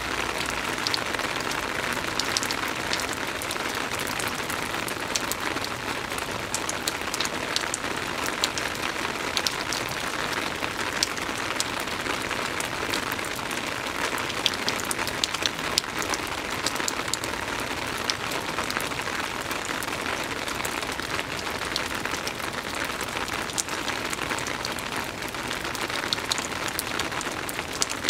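Steady soft rain falling on a surface: an even hiss with many small drop ticks scattered through it.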